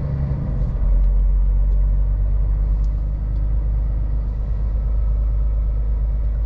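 Scania R500 truck's V8 diesel engine heard from inside the cab, a steady deep rumble at low speed while the truck is manoeuvred to turn around; it grows slightly stronger about a second in.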